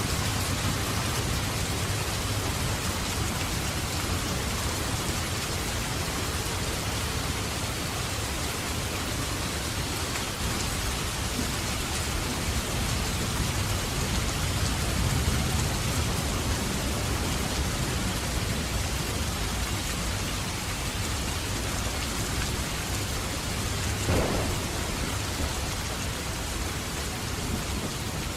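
Steady rain falling, with low thunder rumbling under it that swells and fades. A single short, sharp knock stands out near the end.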